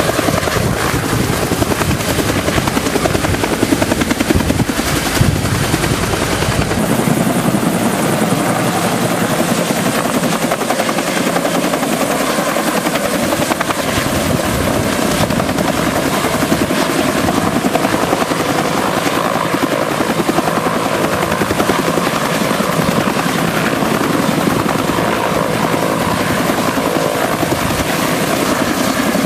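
Firefighting helicopter running close by, its rotor giving a loud, steady, fast chop over the whine of the engine; the deepest part of the sound falls away about seven seconds in.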